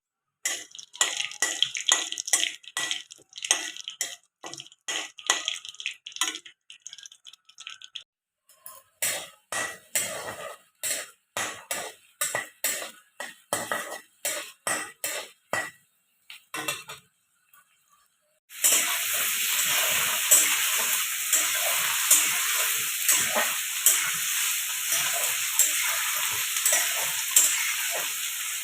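Kitchen utensils knocking and tapping in quick strokes, then, after a short pause, food sizzling in hot oil in a pan while it is stirred, a steady hiss with the knocks of the stirring spoon on top.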